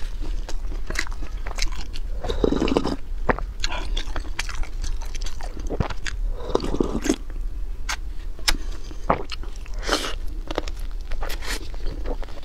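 Close-up eating sounds of glazed fried chicken being chewed: crunching of the crisp coating and many small wet mouth clicks. About six seconds in comes a longer sip of soup from a wooden ladle.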